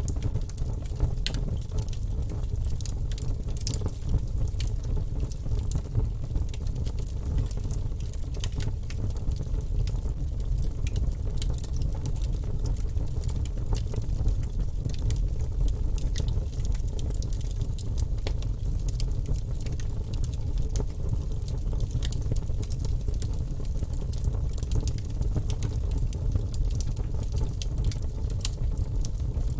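Fire burning in a fireplace: a steady low rumble of flames with frequent small crackles and pops.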